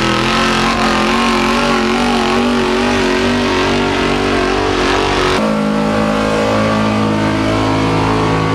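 Pulling truck's engine running hard at high revs under load, its pitch wavering up and down. About five seconds in, the note changes abruptly to a steadier engine drone.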